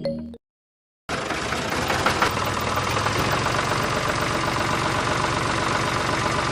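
Small motor of a homemade mini tractor running steadily with a fast rattling texture, starting about a second in after a moment of silence.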